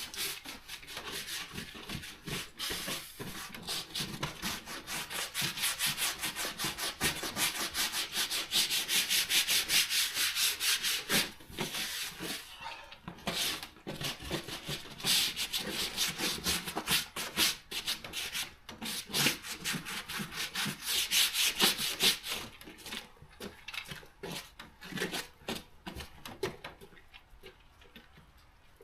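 Rapid back-and-forth rubbing strokes on a surface, several a second, loudest through the middle and thinning out to a few scattered strokes near the end.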